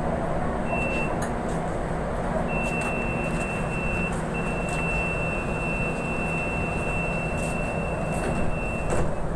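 MRT-3 light-rail car interior: a steady low rumble, with a thin high-pitched tone sounding on and off, once briefly and then for longer stretches, until it stops with a knock about nine seconds in.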